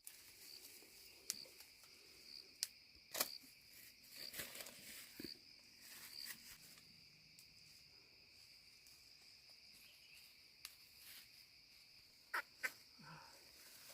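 Faint, steady high-pitched insect chorus, with a few sharp clicks and knocks scattered through, two close together near the end.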